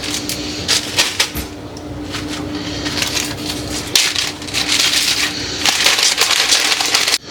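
Plastic chip bags crinkling and rustling in bursts as chips are portioned out of a large bag into small snack bags.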